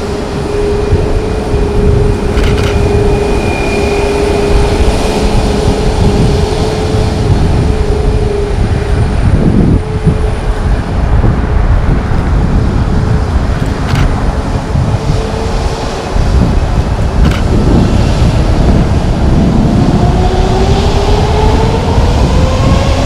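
Boeing 737 MAX's CFM LEAP-1B turbofan engines running with a heavy rumble and a steady whine. In the last few seconds the whine rises in pitch as the engines spool up.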